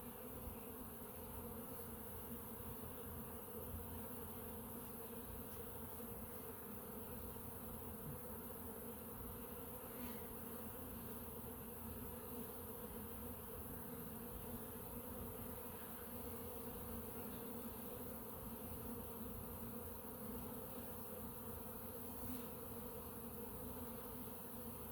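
Steady buzzing hum of a dense crowd of honey bees flying at a hive entrance: heavy forager traffic, bees streaming in and out with pollen.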